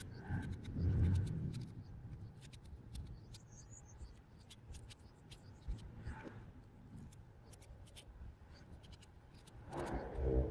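A knife peeling and cutting a crunchy fresh mango: scraping strokes with many crisp little cracks and clicks. A brief pitched, voice-like sound comes near the end.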